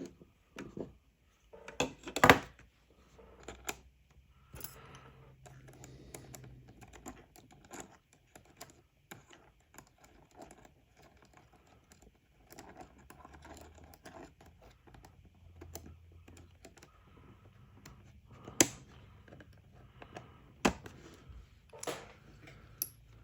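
Small parts of a radio's front panel being handled and fitted by hand: scattered light clicks and taps of plastic and metal, as little retaining rings are put on. There are a few sharper knocks, one about two seconds in and several near the end.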